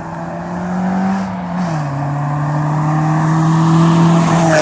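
Nissan Silvia S15's SR20 four-cylinder accelerating through its old 2.5-inch Apexi cat-back exhaust, a battered pipe patched with many welds. The engine note climbs, drops with an upshift about a second and a half in, then climbs again and grows louder before cutting off suddenly near the end; the sound is likened to a Civic.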